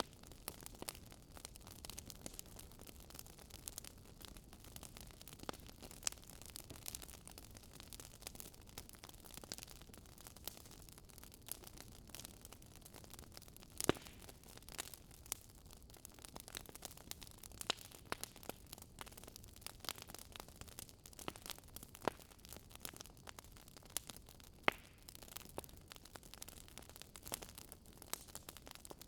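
Wood fire crackling in a fireplace: irregular sharp pops and snaps over a low, steady rumble, with one louder pop about 14 seconds in.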